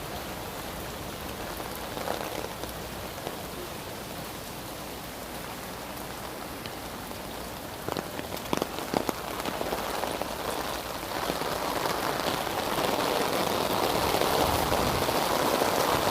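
Heavy rain falling and splashing on surfaces, a steady hiss that grows louder in the second half, with a few sharp knocks about eight to nine seconds in.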